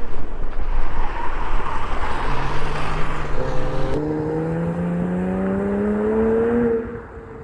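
Porsche Cayman R's 3.4-litre flat-six engine under hard acceleration: after a couple of seconds of rough engine and wind noise, its pitch climbs steadily for about three seconds, then the sound drops away sharply near the end as the throttle comes off or the car moves off.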